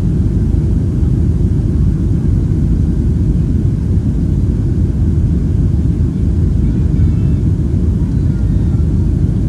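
Steady low roar of an airliner cabin in flight: engine and airflow noise heard from inside the plane.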